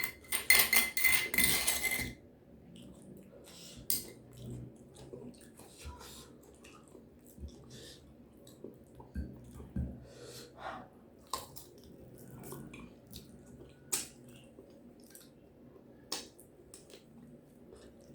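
Close-miked eating: a loud crackly burst for about the first two seconds, then quieter chewing with scattered clicks and taps of a plate or cutlery.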